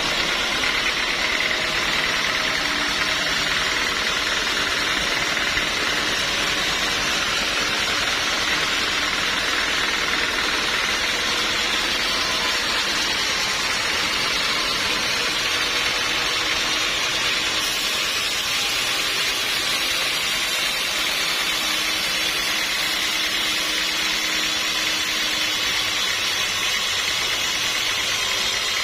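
Sawmill machinery running steadily: a constant engine-like drone with a strong hiss that holds the same level throughout.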